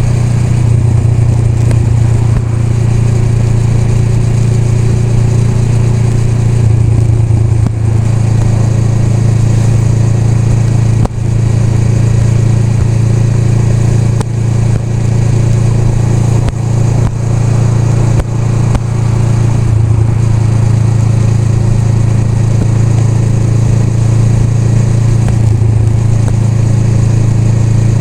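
Honda Rebel 500's parallel-twin engine running steadily, loud and close, with a slight change in pitch about seven seconds in and several brief dips in loudness between about 11 and 19 seconds in.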